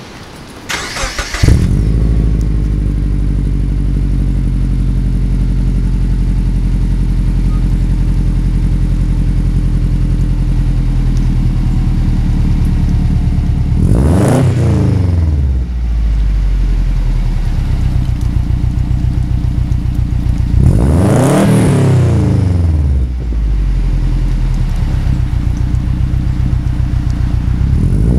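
Subaru Impreza's turbocharged flat-four boxer engine through a Hayward & Scott 3-inch exhaust. It cranks and catches about a second in, then idles steadily and is revved twice, each rev rising and falling over about two seconds. Another rev begins right at the end.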